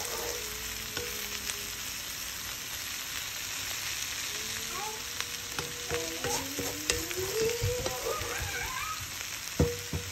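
Oil sizzling steadily as bitter gourd leaves and sliced potato stir-fry in a nonstick pan, with a couple of sharp knocks near the end.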